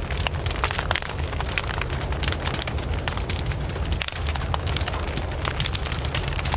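Wood campfire crackling and popping: many quick, irregular snaps over a steady low rumble of flames.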